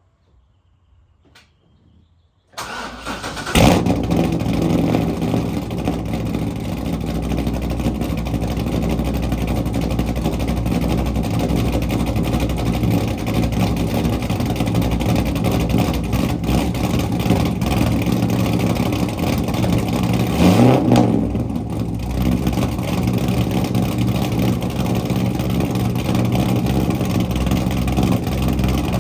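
Corvette C6 Z06's 7.0-litre LS7 V8, cammed and fitted with long-tube headers and straight pipes without mufflers, starts up after about two and a half seconds with a quick crank and a flare of revs, then settles into a loud idle. About two-thirds of the way through it is blipped once, rising and falling, before returning to idle.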